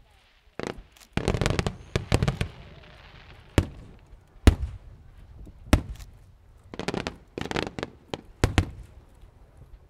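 Aerial fireworks bursting in a string of sharp bangs. A rapid cluster comes early over a hiss, then single reports a second or so apart, and another quick cluster comes near the end.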